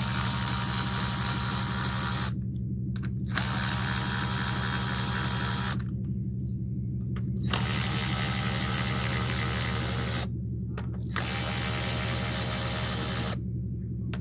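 Hand ratchet clicking as the 10 mm coil-pack bolts on a Pentastar V6 are loosened, in runs of a few seconds with four short pauses, over a steady low hum.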